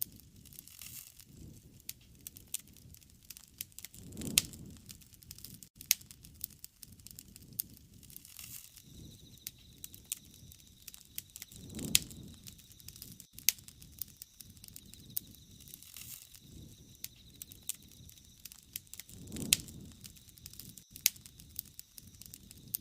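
Wood fire burning: irregular sharp crackles and pops throughout, with a soft low rush of flame three times, about every seven or eight seconds.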